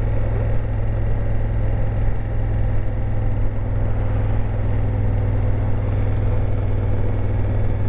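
Honda Africa Twin CRF1000L's parallel-twin engine running at a steady pitch, with a low hum and road and wind noise over it.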